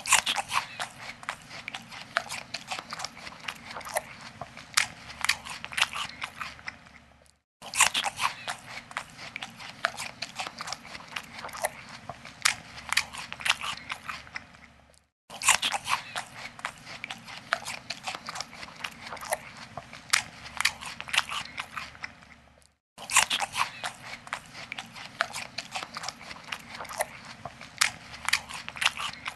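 Monkey eating: close, crisp crunching and chewing of food, with quick sharp bites. It comes in stretches of about seven seconds broken by three brief silences.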